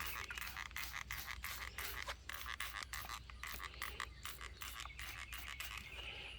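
Trigger spray bottle of Super Clean degreaser squeezed again and again, a quick run of short hissing sprays about three a second.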